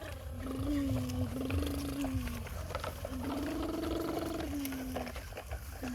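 Heavy diesel dump truck engine running with a steady low rumble, over it a whining tone that holds and then rises and falls in steps every second or so, as under changing load or revs.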